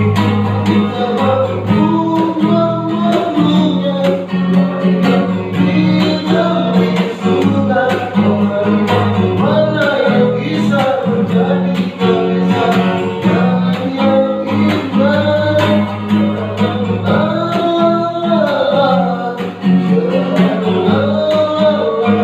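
A voice singing a song with guitar accompaniment.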